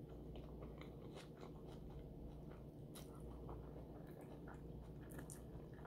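Faint close-up chewing and biting of a filled wrapped roll: scattered soft mouth clicks over a low steady hum.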